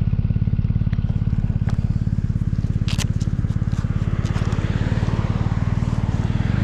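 BMW R1200GS Rallye's boxer-twin engine idling with a steady, even pulse. A few light clicks sit over it, one sharper about three seconds in.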